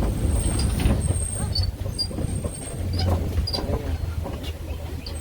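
Safari ride vehicle driving over a rough track: a low engine and road rumble with rattling and clattering, and a thin high whine that comes and goes in the first half.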